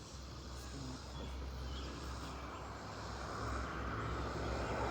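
A motor vehicle engine running steadily, with a low hum, growing louder in the second half as it comes closer.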